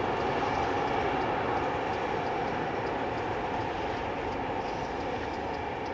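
Electric passenger train rolling over a masonry viaduct, a steady rumble of wheels on rail that slowly fades as the train moves away.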